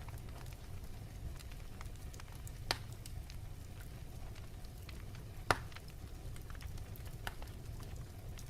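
Wood fire in a fireplace crackling over a steady low rumble, with scattered small crackles and two louder pops, one about a third of the way in and one past the middle.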